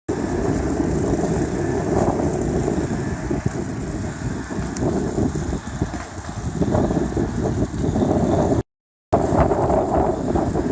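Strong wind buffeting the microphone in a blizzard, a loud, rough rumble that rises and falls with the gusts. It cuts out briefly near the end.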